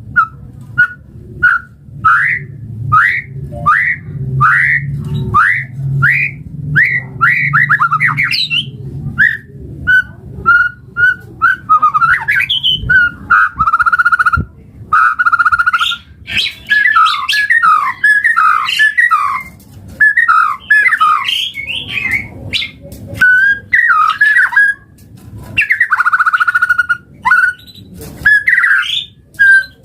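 White-rumped shama singing: a run of short rising whistled notes, about two a second, gives way to varied whistled phrases, rapid trills and a few held notes. A low hum lies under the first several seconds.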